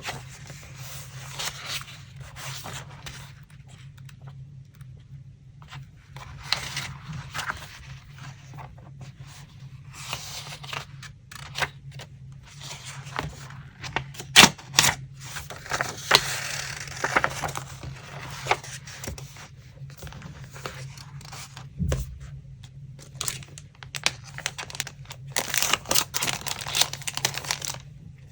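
Paper being handled for a collage: rustling and tearing in irregular bursts, with occasional sharp taps and clicks. A steady low hum runs underneath.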